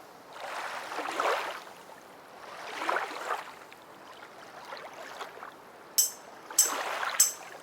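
Ocean waves washing ashore in slow swells, about one every two seconds. Near the end come a few bright, high chime-like tings.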